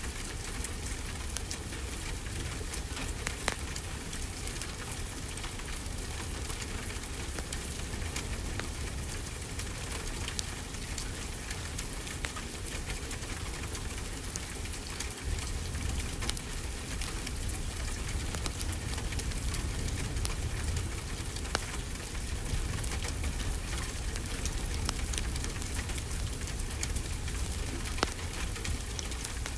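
Steady rainfall hiss mixed with a crackling wood fire: scattered sharp pops and snaps over a constant wash of rain and a low rumble.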